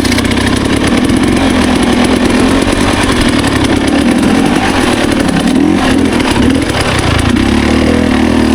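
Dirt bike engine running as it rides along a trail, its pitch rising and falling with the throttle.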